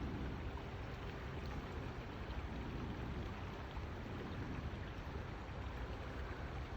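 Steady, quiet rush of a flood-swollen river running high and muddy, with a low rumble underneath.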